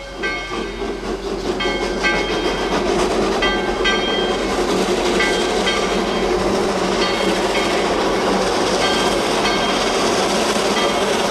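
Narrow-gauge passenger train rolling along, its wheels and cars rumbling and clattering on the rails. The sound builds over the first couple of seconds and then holds steady, with short high squeals coming and going.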